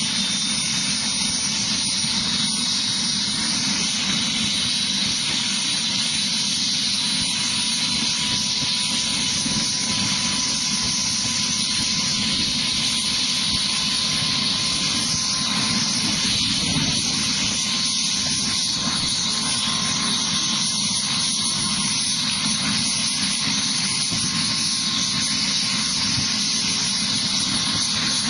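Helicopter turbine and rotor running steadily at an even level.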